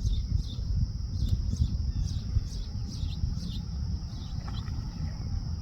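Steady high-pitched insect chorus, like crickets, with a bird giving a run of short falling chirps, a few a second, over the first three seconds or so. A low rumbling noise runs underneath.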